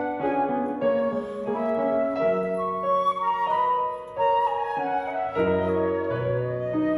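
Live flute and piano duet: the flute plays a melody of held notes over piano accompaniment, with deeper piano bass notes coming in about halfway through.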